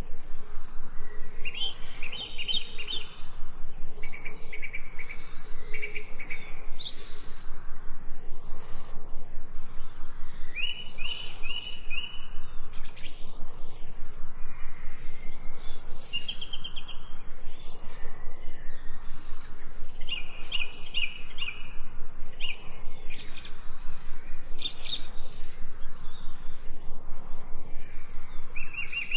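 Several songbirds chirping and singing in short, repeated trilled phrases that overlap through the whole stretch, over a faint steady background.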